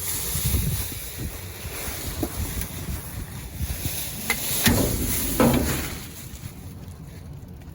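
Wind buffeting the microphone in a steady rumble, with rustling and a few sharp knocks about four to five and a half seconds in.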